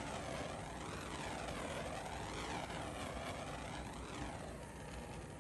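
A steady droning noise whose tone sweeps slowly up and down again and again, easing off slightly near the end.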